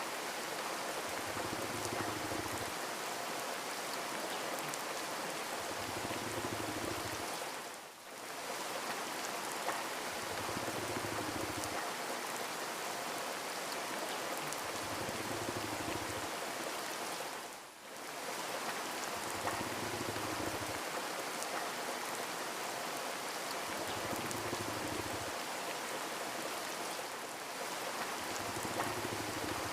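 Steady rain falling, an even hiss of drops, with a soft low pulse recurring about every four and a half seconds. The rain briefly dips in level twice.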